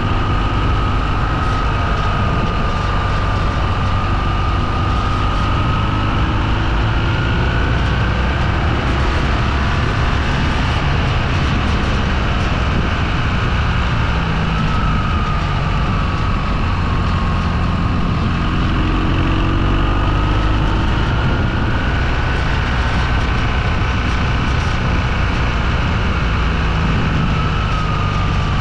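Motorcycle engine running steadily while riding, with wind and road noise and a thin high whine that drifts slowly up and down in pitch.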